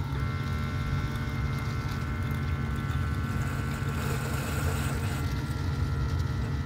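Keurig K-Mini single-serve coffee maker brewing: a steady pump hum with whining tones over the hiss of hot water being forced through the pod and coffee running into the cup.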